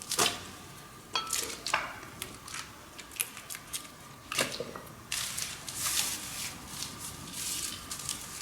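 Hand-work sounds: a series of short scratchy, swishing scrapes with a few sharp clicks and knocks, irregularly spaced.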